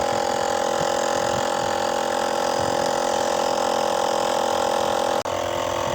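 Small 12-volt car air compressor running steadily, blowing air through a homemade smoke generator for a smoke test of the engine intake. There is a brief dip about five seconds in.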